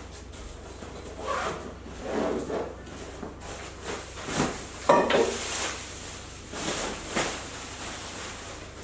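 Irregular rustling and handling noises, with a few sharp knocks and clunks, as things are moved about and put down.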